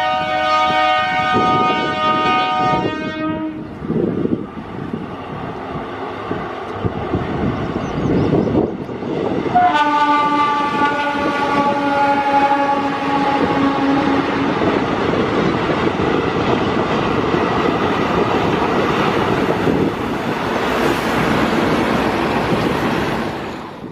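A DEMU diesel local train passing with its horn sounding twice: one long blast that ends about 3 seconds in, and another from about 10 to 14 seconds in that drops slightly in pitch as it goes by. Loud wheel and running noise on the rails continues throughout.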